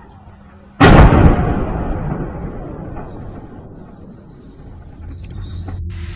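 A single loud explosion about a second in, its rumble rolling on and fading over several seconds, with birds chirping faintly around it. Near the end, an abrupt change to a steady rushing hiss.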